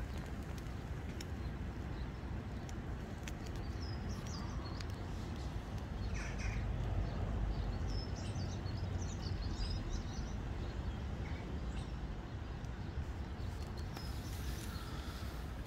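Small birds chirping faintly now and then, over a steady low rumble that swells a little in the middle.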